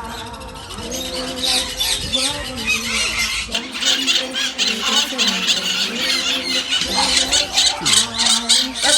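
A flock of parrots screeching and squawking together, a dense, continuous chorus of shrill calls.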